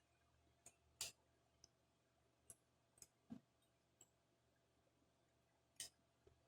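Scattered light clicks and taps, about eight of them spread irregularly, the loudest about a second in and one duller knock midway, from small tools and carburetor parts being handled during reassembly.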